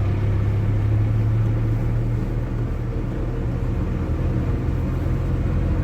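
ZMZ-405 four-cylinder petrol engine of a GAZ van running steadily under load in third gear, heard from inside the cab as a steady low hum with road noise.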